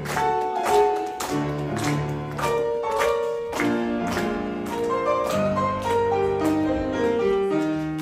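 Piano accompaniment playing an instrumental interlude between verses of a song, notes and chords struck in a steady rhythm.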